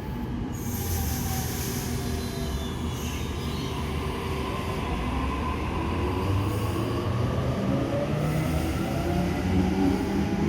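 Electric suburban passenger train running into a station platform: a steady rumble of wheels on rail, with a motor whine that slides down in pitch as it slows.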